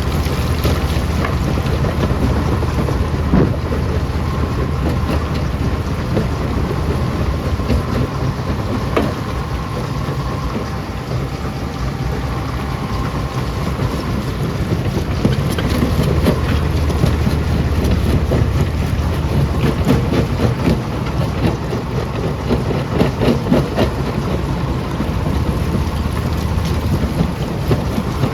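Rock crusher running under load: a steady low machine drone with continual knocks and cracks of stone being broken.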